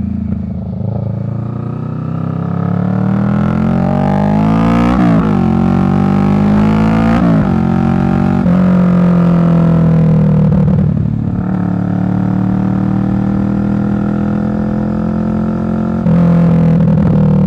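2023 Kawasaki Vulcan 650's parallel-twin engine running through a Delkevic slash-cut exhaust while riding. The pitch rises under acceleration and drops sharply at gear changes about five and seven seconds in, then settles into a steady cruise. It eases briefly near eleven seconds and gets louder again near the end.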